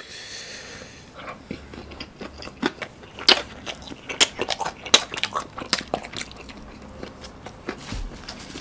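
Close-miked eating sounds: chewing and wet mouth clicks, mixed with crinkling plastic film as a wrapped gimbap roll is opened, heard as a run of sharp clicks and crackles.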